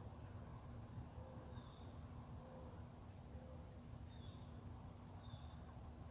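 Faint, scattered short bird chirps, a few per second or so, over a quiet low background hum.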